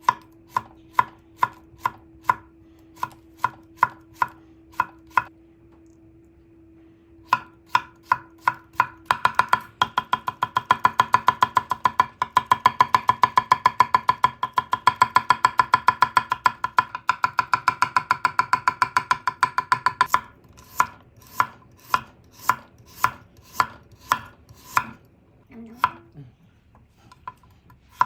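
Kitchen knife chopping on a cutting board: steady strokes about two a second, a short pause, then fast, rapid chopping for about ten seconds, then back to slower cuts.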